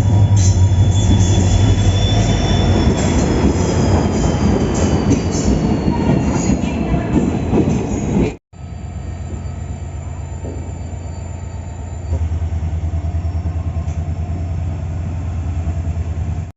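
Passenger train running on the rails: a loud low rumble with a high-pitched wheel squeal that slowly falls in pitch. After a sudden cut about eight seconds in, a quieter, steady rumble with a fast regular pulse.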